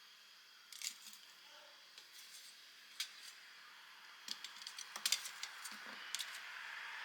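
Scattered light metallic clicks and clinks, with a quick run of them about five seconds in, over a faint hiss that grows louder near the end.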